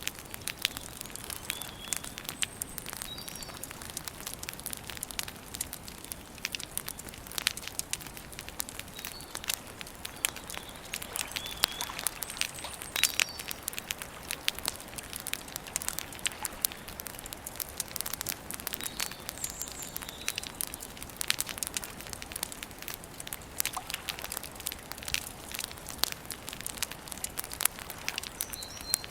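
Campfire burning with constant crackling and frequent sharp pops of burning wood. Short high bird chirps come in now and then.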